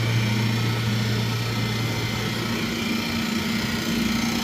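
Chiller running: a steady machine hum over a broad rush of noise, with a strong low hum tone that fades out about two seconds in while a higher hum tone carries on.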